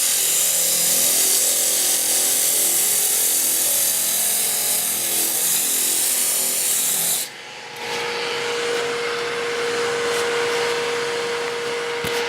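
120-grit sandpaper held against a wooden spindle turning on a lathe, a loud steady rubbing hiss. It breaks off for a moment about seven seconds in and resumes, now joined by a steady tone.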